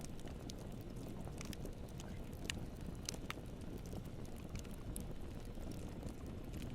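Campfire burning and crackling: a steady low rumble with scattered sharp pops, a couple of louder ones about halfway through.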